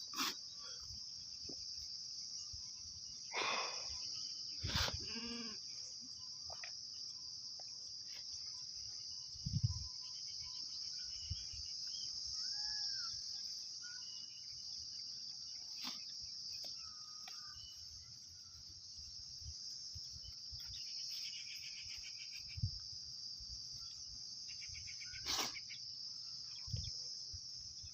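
A goat bleats, one clear wavering bleat about five seconds in, with a few fainter calls later, over a steady high-pitched drone.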